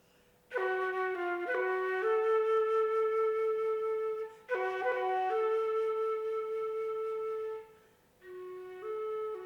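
Solo flute playing. Two phrases each open with a few quick notes and settle on a long held note. After a brief pause, a softer phrase starts near the end.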